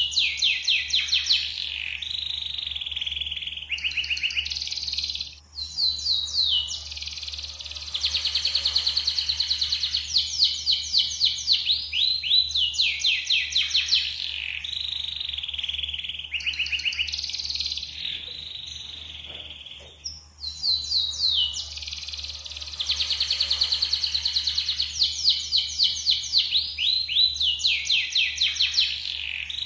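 Yellow domestic canary singing long phrases of fast repeated notes and high trills, broken by two brief pauses, with a faint low hum underneath.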